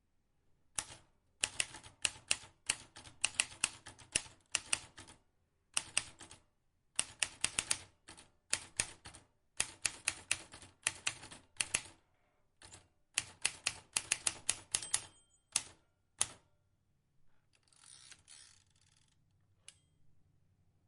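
Vintage typewriter keys being struck in fast runs of sharp clicks, with short pauses between runs. The typing stops about three-quarters of the way through, followed by a quieter, noisy stretch of about two seconds and a single click.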